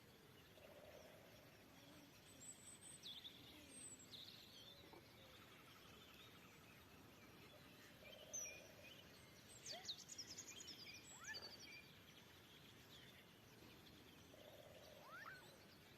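Faint springtime birdsong: several birds chirping, whistling and trilling in short phrases, busiest in the middle, with a short low call repeated three times, over a steady background hiss.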